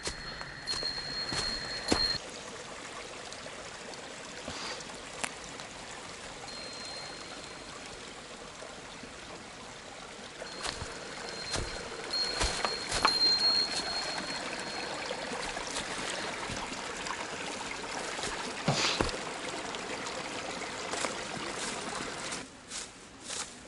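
A small stream running steadily, with scattered sharp clicks and a thin high tone that comes and goes.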